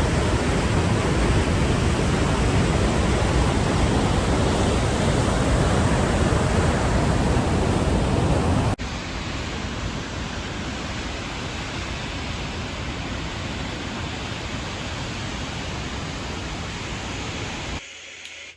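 Waterfall roaring: a steady, dense rush of falling water. About nine seconds in it cuts abruptly to a quieter, less deep rush, which drops away near the end.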